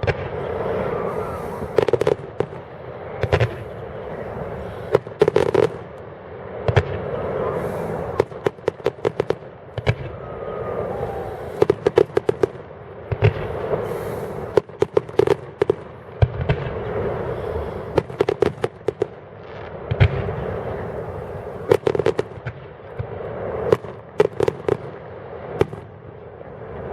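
Fireworks display: repeated sharp bangs and clusters of rapid crackling, coming every second or two.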